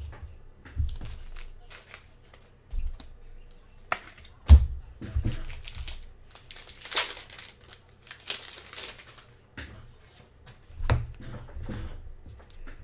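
Trading-card pack wrapper being crinkled and torn open by hand, with cards handled and tapped: scattered clicks and knocks and a few longer bursts of crinkling.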